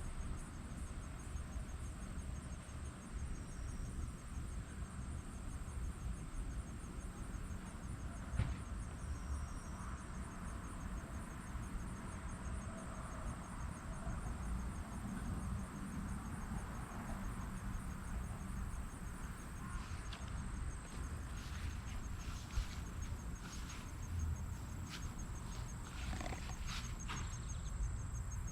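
Insects trilling in a steady, high, fast-pulsed chorus over a low rumble of wind on the microphone, with a few soft clicks and rustles, most of them near the end.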